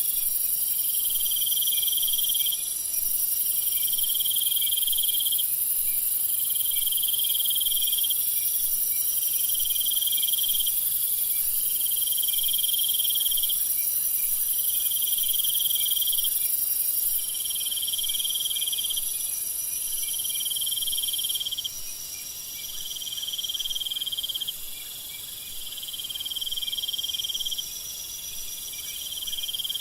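Nighttime jungle insect chorus: a constant shrill buzz of crickets and other insects, over which a lower repeated call pulses on and off about every second and a half. The highest buzzing thins out a little in the second half.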